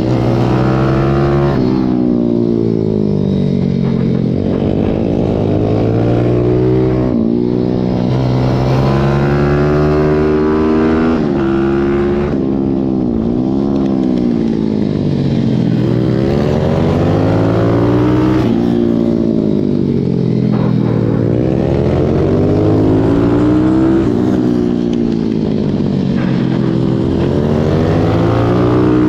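Pit bike's small single-cylinder four-stroke engine, heard close up from on board, racing hard. Its pitch climbs and drops back every couple of seconds as the rider accelerates, changes gear and brakes into corners.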